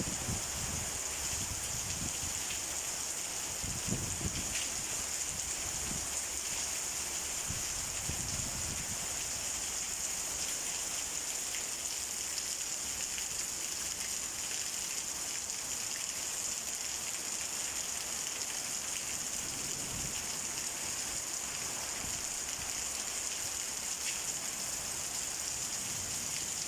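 Steady rain from a summer storm, pouring down evenly, with a few brief low thumps, mostly in the first third and again near the end.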